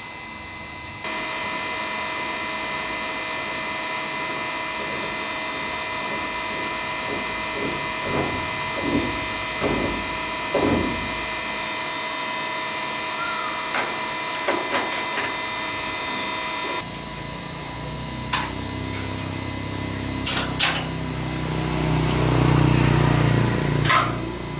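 An electric power tool runs steadily with a whine from about a second in, with a few knocks, and cuts off about two thirds of the way through. A lower-pitched machine sound follows and swells near the end, with a few sharp clicks.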